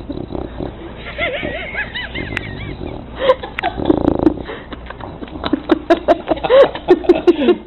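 A dog vocalizing in short, wavering cries that rise and fall in pitch, with many sharp clicks and knocks in the second half; the cries are loudest near the end.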